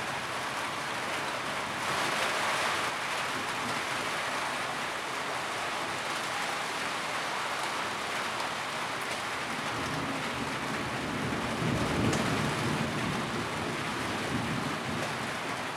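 Steady rain drumming on a tin roof, a dense even patter. A low rumble swells underneath about eleven to thirteen seconds in.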